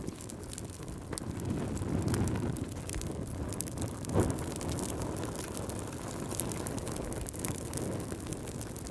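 Fireplace fire crackling: a low steady rumble of flames with frequent small crackles and one louder pop about four seconds in.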